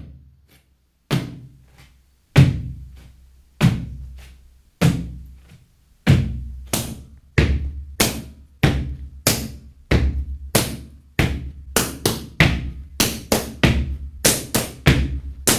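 Gumboot dance percussion: rubber boots slapped and stomped on a platform, each hit sharp with a low boom. Single strikes come about every second and a quarter, then about six seconds in they quicken into a steady rhythm of two to three hits a second.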